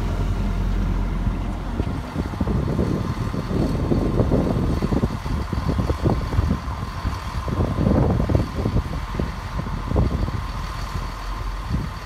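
Diesel multiple-unit trains running. The low rumble of one unit pulling away eases off in the first couple of seconds, then an arriving unit's engine runs as it draws slowly in, with uneven low rumbling.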